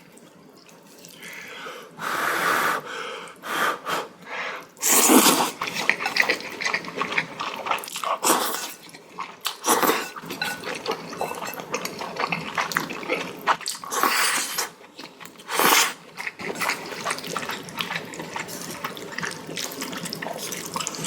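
Ramen noodles and broth being slurped in repeated loud slurps, with wet chewing and mouth sounds between them.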